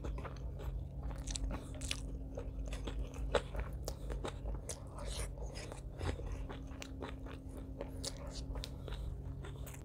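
Close-miked chewing and mouth sounds of a person eating rice and curry with the hands: many quick clicks and crunches, over a low steady hum.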